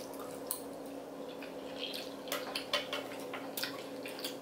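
Wet chewing with short, scattered mouth smacks and clicks as people eat noodles and chewy rice cakes, over a steady low hum.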